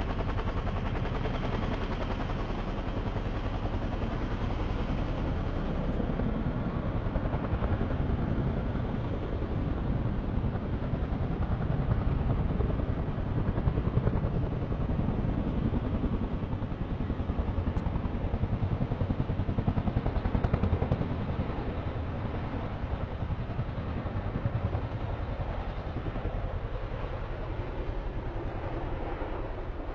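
Loud, rough jet engine noise with a deep rumble, starting abruptly and swelling slightly through the middle before easing near the end, as from a fighter jet on the runway or taking off.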